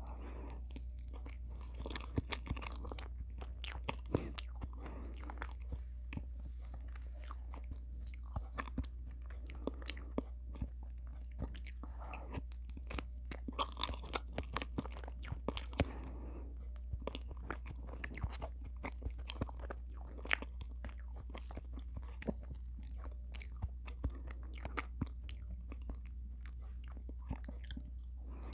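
Close-miked chewing of soft, creamy cheesecake: a steady stream of sticky, wet mouth clicks and smacks, with a constant low hum underneath.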